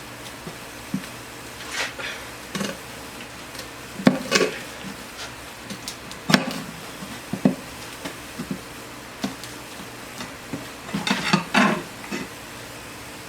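Irregular knocks, clanks and scraping of hands and tools working a new tire onto a go-kart wheel rim, with a few sharper knocks about four seconds in, about six seconds in, and a cluster near the end.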